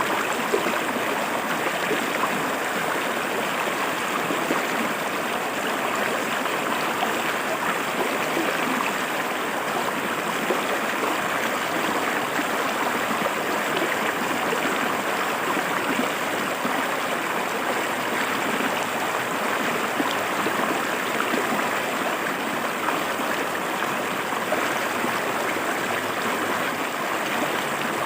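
Shallow river water flowing and splashing over rocks, a steady rushing babble with small gurgles throughout.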